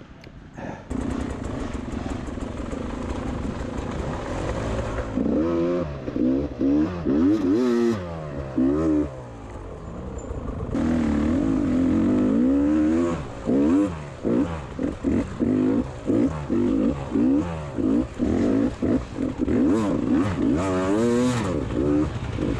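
Beta 300 RR two-stroke enduro bike engine, ridden off-road with the throttle worked on and off in short bursts. The pitch rises and falls again and again, with steadier running in between. The engine picks up about a second in.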